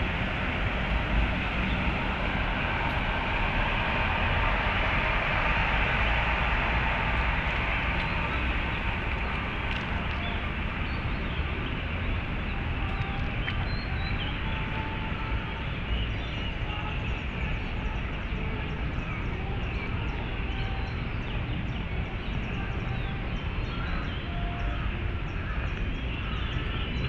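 Steady rumble of city traffic, swelling for the first several seconds, with birds chirping over it in the second half.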